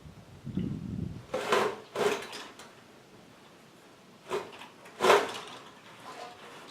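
Four irregular knocks on a wooden frame, each sharp and short, the last the loudest, after a low rumble of handling noise near the start.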